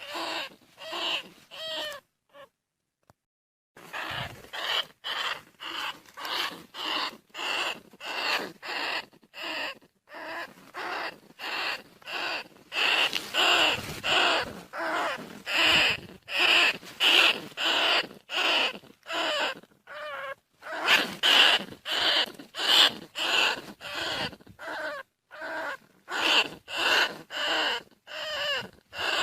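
Bandicoot rat calls: a rapid series of short, high squeals at about two a second, with a brief silent break about two seconds in. The recording is a lure call meant to bring rats in quickly.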